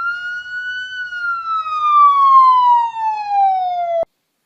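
A siren wail: one long rising tone that peaks about a second in, then falls slowly and cuts off abruptly near the end.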